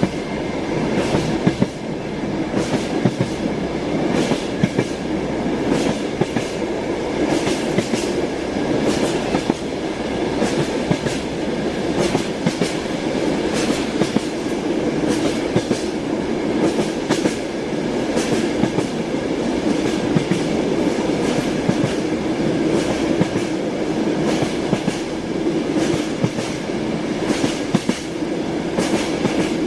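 Train wheels clattering over the rails: a steady rumble with many sharp clicks a second.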